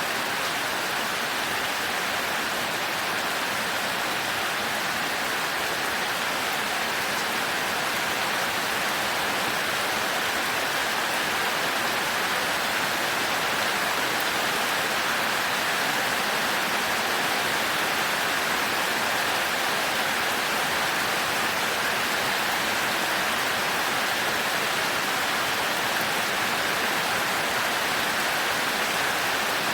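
Heavy rain falling steadily on a thatched roof, an even hiss with no change in strength.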